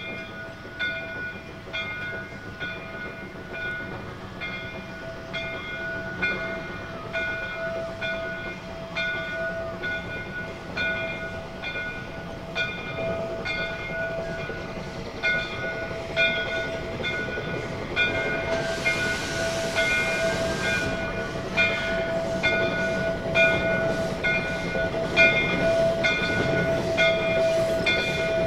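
J. Neils Lumber Co. #5, a Shay geared steam locomotive, working along the track: a steady ringing tone under a regular pulsing beat, growing louder. About eighteen seconds in, steam hisses for about two seconds.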